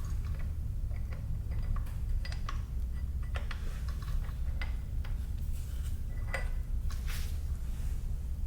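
Scattered light metallic clicks and clinks of tools and engine parts being handled during work inside a motorcycle engine, over a steady low hum.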